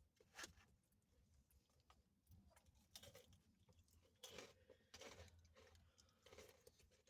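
Faint chewing and wet mouth smacks of a person eating close to the microphone, in irregular short bursts, the clearest about half a second in and around the middle.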